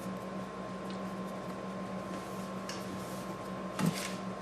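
Quiet kitchen room tone with a steady low hum and faint ticks, then a short knock, like a dish or utensil set down, near the end.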